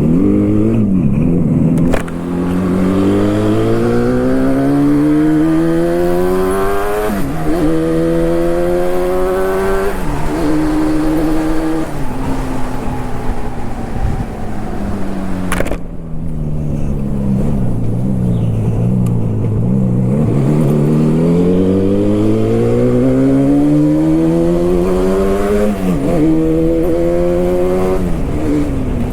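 Yamaha RD350's two-stroke parallel-twin engine accelerating hard up through the gears: its pitch climbs steadily and drops abruptly at each upshift. Midway it eases off, the pitch sinking for several seconds, then it pulls up through the gears again.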